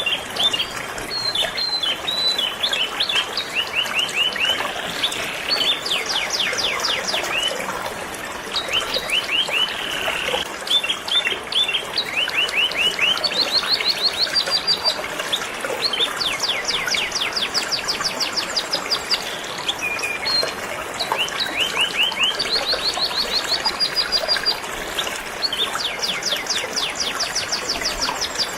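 Canary singing in long, rapid trills and rolls of quick repeated high notes, with short pauses between phrases, over a steady rush of flowing river water.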